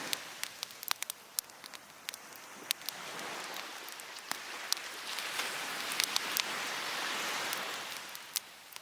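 Wood fire crackling with frequent sharp pops, over waves washing onto the beach. A wave swells from about three seconds in and falls away near the end.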